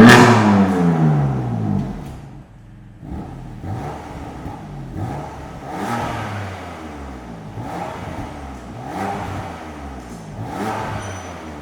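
BMW F80 M3 / F82 M4 twin-turbo inline-six exhaust through a single midpipe, revved hard at the start and then blipped in a series of short revs, each rise and fall of pitch coming about every second and a half.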